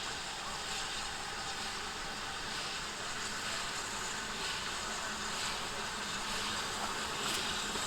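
Steam locomotive working, a steady rushing noise.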